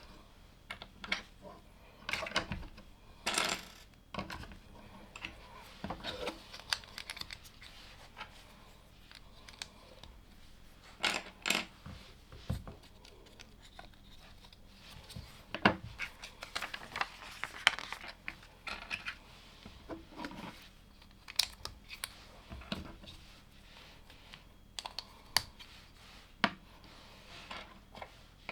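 Small plastic LEGO pieces clicking and rattling as they are handled and pressed together: irregular single clicks with a few short bursts of rattling.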